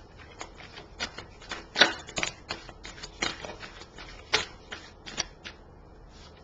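A tarot deck being shuffled and handled: a quick, irregular run of sharp card snaps and slaps, the loudest about two seconds in.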